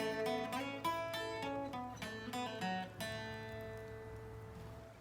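Acoustic guitar played alone: a quick run of picked notes, then a chord struck about three seconds in and left to ring and fade.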